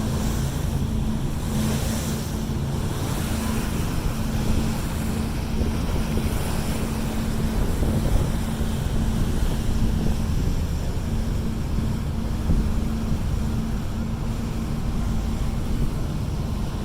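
Tour boat's engine running steadily with a low hum, with wind buffeting the microphone and water rushing past the hull.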